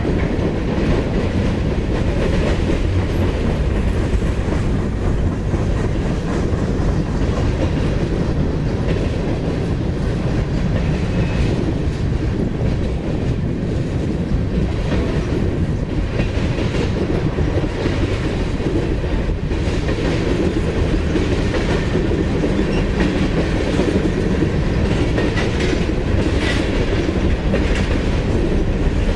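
Freight train cars rolling past, their wheels running on the rails in a steady, continuous noise with scattered faint clicks.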